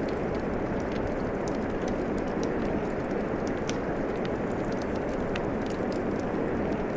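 Steady rain with a wood fire crackling over it, with small sharp pops scattered throughout.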